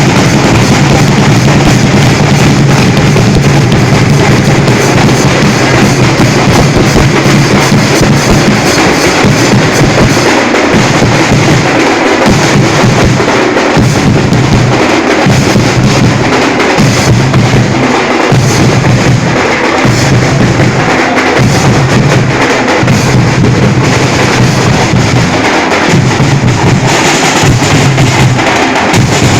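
Very loud, distorted drumming by a drum group, a dense, continuous din of percussion. In the second half a deep drum beats about once a second.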